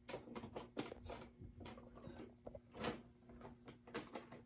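Scattered light clicks and taps of O gauge model train cars being handled and set on the track, over a faint steady hum.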